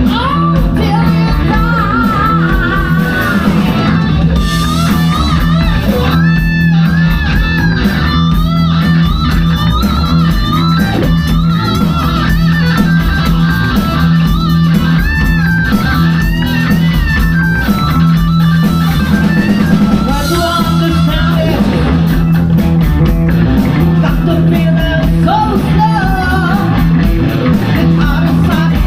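A rock band playing live, with electric guitar over bass and drums and some singing.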